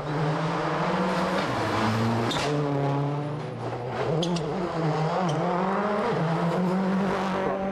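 Rally car engine at full throttle heard from inside the car, revs climbing and dropping sharply several times as it shifts gear, with a few short high clicks about four to five seconds in.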